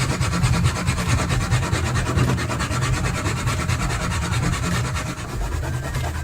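Continuous abrasive rubbing, like sanding or sharpening, on an old knife being restored.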